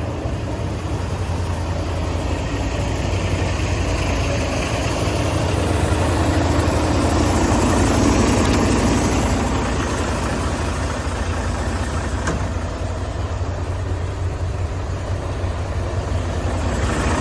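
Mercedes-Benz SK 2527 truck's diesel engine idling with a steady low hum. It grows a little louder around the middle, then settles back.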